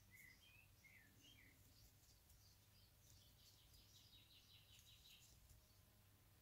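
Near silence: room tone with a few faint high bird chirps, then a faint rapid twittering a few seconds in.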